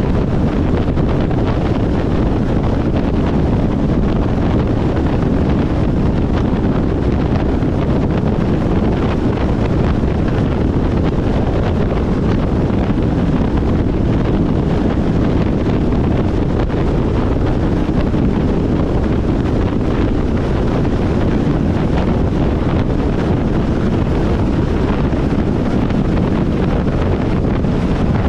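Steady loud wind noise on the microphone, an unbroken low rumbling rush.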